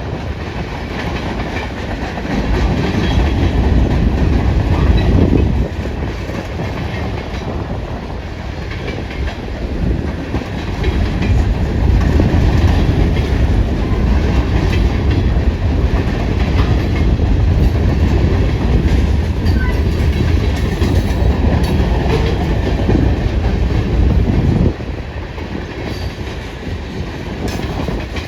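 Freight train cars rolling past, wheels clacking over the rail joints, with strong wind buffeting the microphone and a heavy low rumble that rises and falls.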